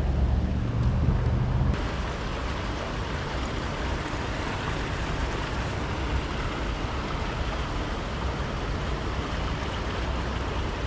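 Steady rushing noise of flowing river water. For the first couple of seconds a heavy low rumble of wind on the microphone sits over it, then cuts off abruptly.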